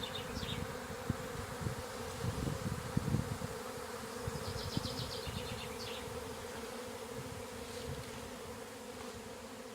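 Honeybee swarm buzzing, a steady hum. A bird trills briefly about four seconds in.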